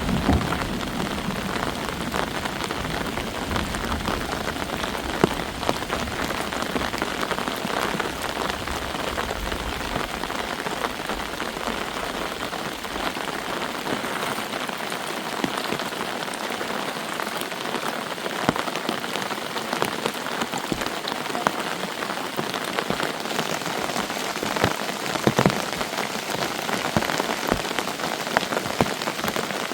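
Steady heavy rain falling, with many separate drop impacts ticking on a surface.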